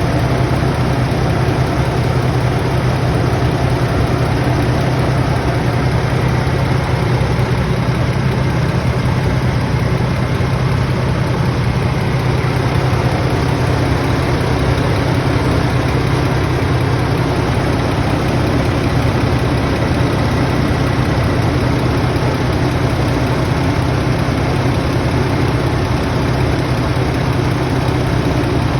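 An engine idling steadily, an even, unchanging low hum with no revving, as when running after a compressor replacement.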